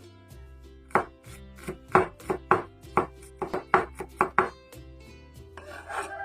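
A knife chopping food on a cutting board: about a dozen sharp, irregular knocks clustered between about one and four and a half seconds in, over quiet background music.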